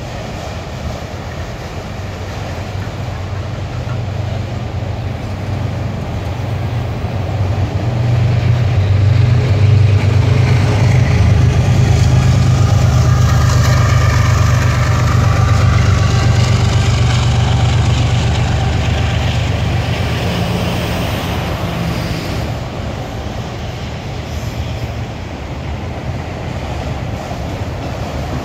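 A freight train of autorack cars rolling past with steady wheel-on-rail noise. A mid-train diesel locomotive passes in the middle, its low engine hum growing loud and then fading.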